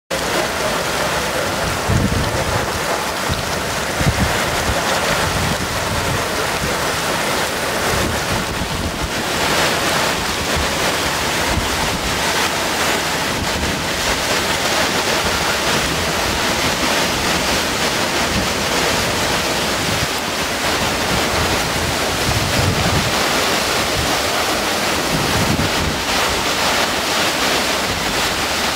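Strong thunderstorm winds rushing steadily, with gusts buffeting the microphone in low thumps a few times.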